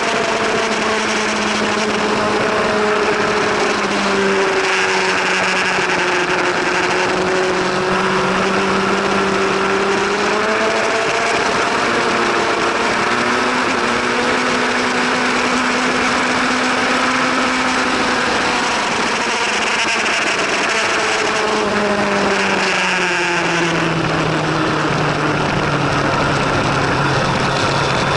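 Superbike motorcycle engine running at moderate revs, its pitch rising and falling slowly. About 23 seconds in, the pitch drops and settles low.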